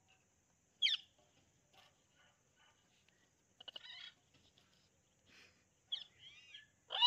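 Pet parrots, an Alexandrine parakeet and an Amazon parrot, calling: a sharp squawk about a second in, soft chattering and warbling notes in the middle, and a loud squawk at the very end.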